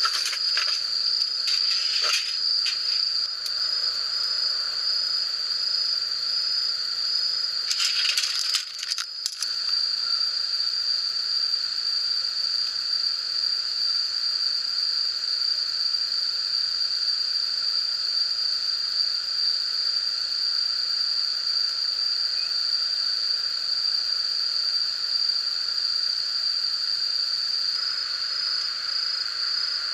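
A steady chorus of insects such as crickets, one unbroken high-pitched trill with a lower layer beneath it, and a few brief rustling noises in the first ten seconds.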